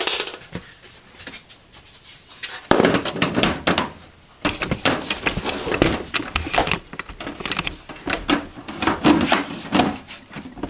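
Metal side panel of a Dell XPS 8300 desktop case being put back on: a sharp knock a little under three seconds in, then a run of clattering knocks, clicks and scraping as the panel is slid and seated on the chassis.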